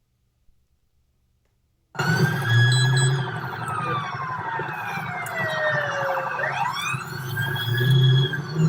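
Police car sirens wailing, starting suddenly about two seconds in after near silence; one wail slides slowly down in pitch and then climbs back up, over a low hum that swells twice.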